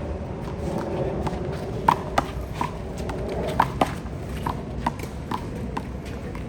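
A handball rally: the small rubber ball smacked by hand and bouncing off the wall and the court, with sneaker footsteps, in a run of sharp irregular taps and slaps, the loudest about two seconds in and about three and a half seconds in.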